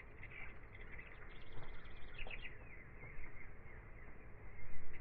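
Birds chirping in quick short notes over a steady hiss, with a low bump near the end.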